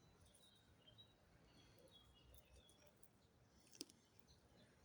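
Near silence: a faint outdoor background with a few faint, short high chirps and one soft click a little before the end.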